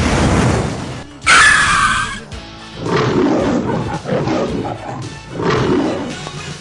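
Animal roar sound effects dubbed over background music. There is a long rough blast at the start, a harsh high-pitched burst about a second and a half in, then three shorter, deeper roars a second or so apart.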